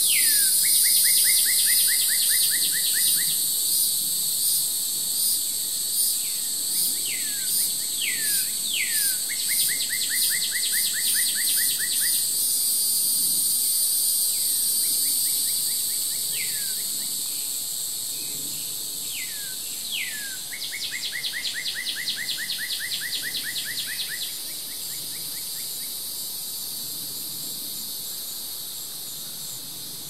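A songbird calling over and over: two quick down-slurred whistles, then a fast trill of rapidly repeated notes lasting a few seconds, about three times. Underneath runs a steady, high insect chorus of crickets or cicadas.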